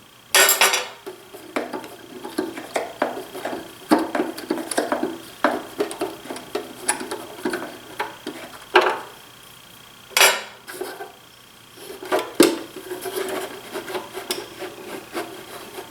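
Hand work on a DeWalt 735 benchtop planer being taken apart: irregular clicks, taps and rattles of its metal and plastic parts and fasteners being handled. There are a few louder knocks, about half a second in and again around the middle and two-thirds through.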